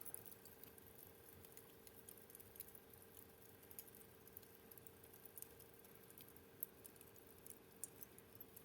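Wood fire crackling faintly, with irregular small pops and ticks scattered through.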